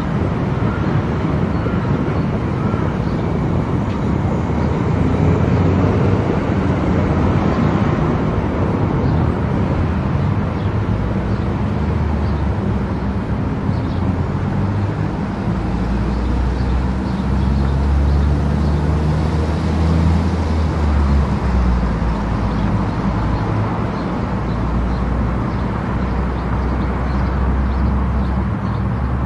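Car travelling at highway speed: steady tyre and road noise with a low engine rumble.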